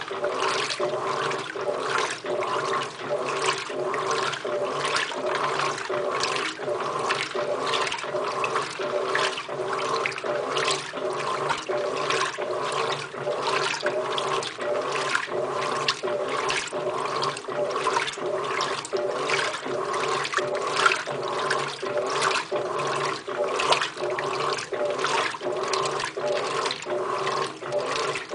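Electrolux LTR15 top-loading washing machine agitating on its heavy-soil cycle: the agitator swishes the water-soaked load back and forth in about two surges a second over a steady motor hum.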